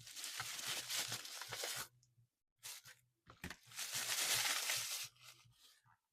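Packaging being torn open and crinkled by hand, in two long stretches with short rustles between.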